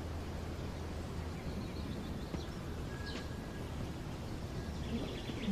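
Outdoor ambience: a steady low hum with faint small bird chirps, a few around the middle and a quick run of them near the end.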